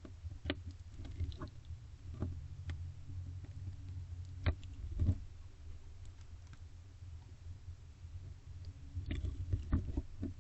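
Barn owl feeding on a rabbit in a wooden nest box: a low rumbling rustle of movement with four sharp clicks scattered through.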